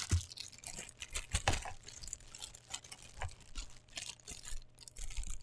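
Packaging being handled during an unboxing: irregular rustling and light clicks.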